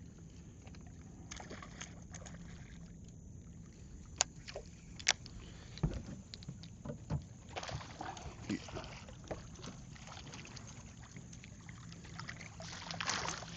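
Scattered sharp clicks and knocks on a small fishing boat, with a little soft water noise, as a hooked redfish is brought to the landing net.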